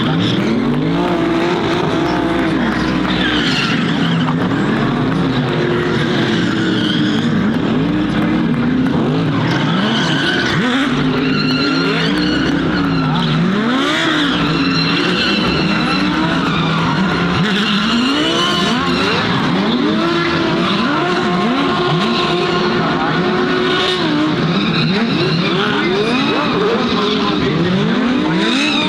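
GT3 race car engines revving up and down over and over, sometimes several at once, while the tyres squeal and skid through donuts.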